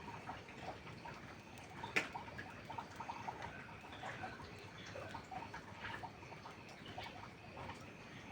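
Rain dripping and pattering, mixed with the small irregular crackles of a campfire, with one sharp pop about two seconds in.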